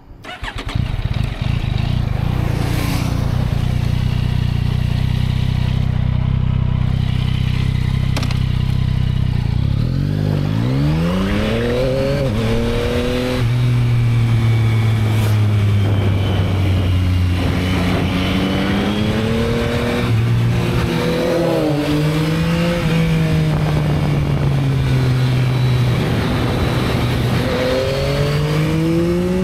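Yamaha MT-09's 890 cc inline three-cylinder engine on its stock exhaust, starting up and idling steadily for about ten seconds. It then pulls away, the engine note rising under acceleration and dropping at each gear change, with several more rises and falls near the end.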